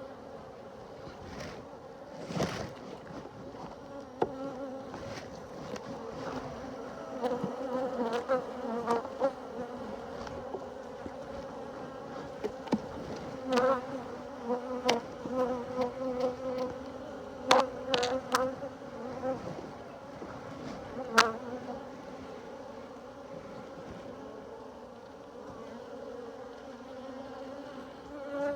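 Honeybees buzzing around an opened hive in a steady drone, with a scattering of sharp clicks and knocks through the middle of it.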